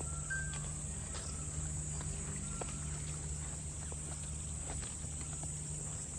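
Steady high-pitched drone of insects, with footsteps crunching along a path and a few short bird chirps near the start.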